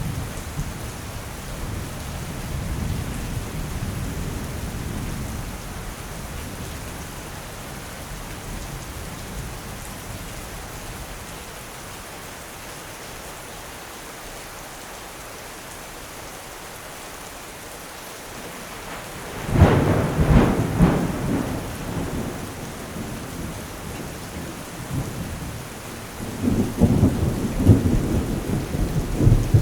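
Steady rain in a thunderstorm. A low rumble of thunder dies away over the first few seconds, then a sudden loud thunderclap comes about two-thirds of the way in and rolls on. Another rumble builds near the end.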